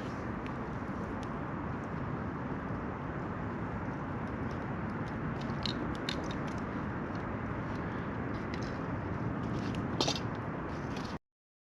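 Campfire burning with a steady rush and irregular sharp crackles and pops, the loudest pop about ten seconds in; the sound cuts off abruptly near the end.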